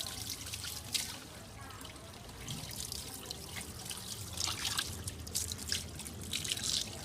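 Bath water trickling and dripping in irregular spurts.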